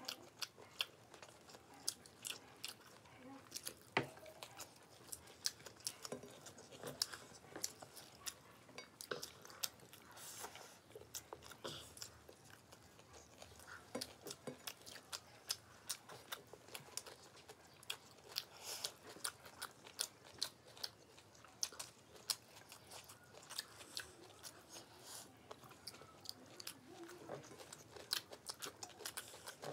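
Two people chewing and eating fried rice and chilli chicken by hand, with many quick, irregular mouth clicks and smacks.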